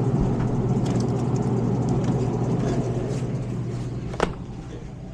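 A motor vehicle's engine running with a steady low hum, fading over the last two seconds, and a single sharp knock about four seconds in.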